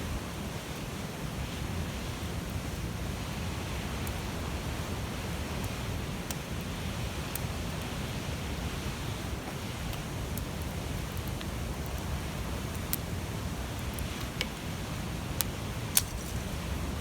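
Large wood fire burning: a steady rush of flames with scattered sharp crackles and pops from the burning wood, the loudest pops near the end.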